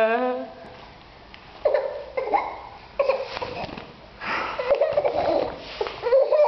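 Bursts of laughter, several short ones and a longer run a little past the middle.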